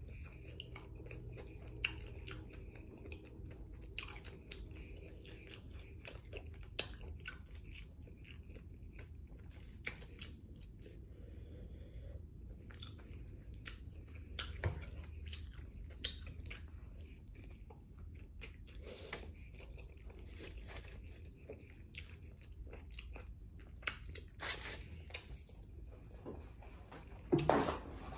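A person chewing and biting into a chicken burrito close to the microphone, with soft wet mouth sounds and scattered small clicks. Near the end a paper napkin rustles against the mouth.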